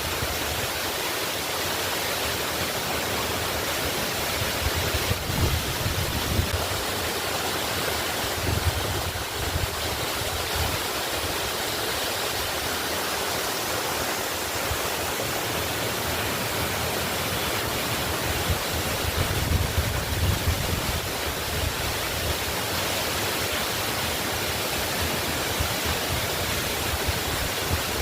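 Waterfall pouring steadily, an even wash of falling-water noise.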